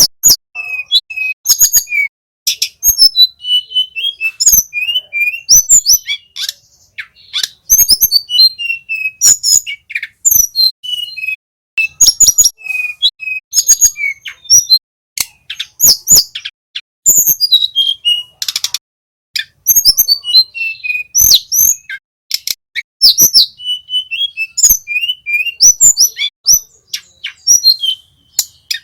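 Small flycatcher singing a fast, continuous run of sharp chirps and short whistled notes, the phrases broken by brief pauses.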